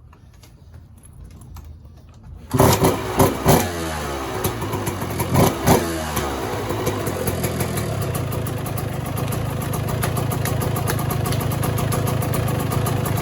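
Suzuki RM125 two-stroke single-cylinder dirt bike engine firing up about two and a half seconds in, on its first start after a new spark plug and oil change. It is blipped several times, then settles into a steady, fast-pulsing idle.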